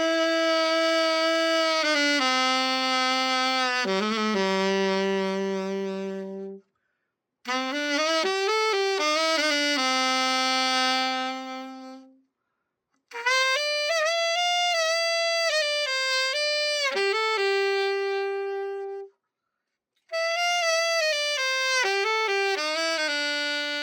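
Yamaha YAS-280 alto saxophone being played in four short phrases of sustained notes, each phrase ending on a held lower note and separated by brief silences: a play test of the horn after a complete overhaul.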